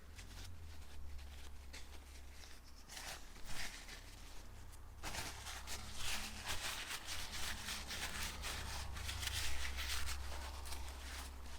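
Faint scratchy rubbing and light handling clicks as a small ball bearing from a pressure-washer motor is wiped clean by hand, over a low steady hum.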